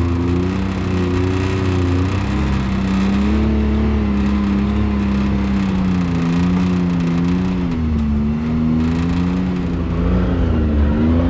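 Can-Am Maverick X3 side-by-side's turbocharged three-cylinder engine running under changing throttle while crawling over a rough, rocky trail, its pitch rising and falling gently.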